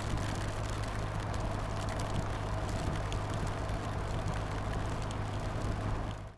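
Motorcycle riding in heavy rain: a steady engine hum under wind and wet road noise, with scattered faint clicks, cutting off abruptly near the end.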